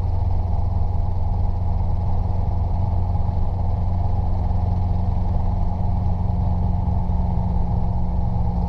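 Robinson R22 helicopter running steadily, its engine and rotor heard from the cabin as a constant low drone.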